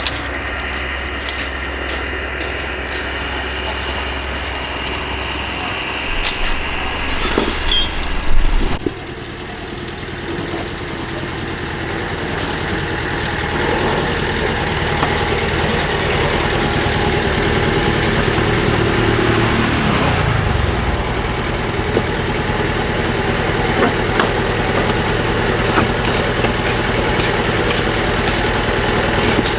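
Car engine running, with a louder clattering stretch about seven to eight seconds in; later its pitch falls steadily as the revs drop back.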